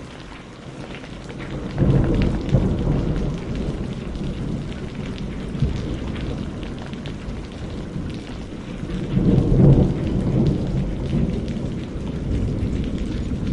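Steady rain pattering on a greenhouse roof, with thunder rolling in about two seconds in and rumbling on, then a louder peal around ten seconds in.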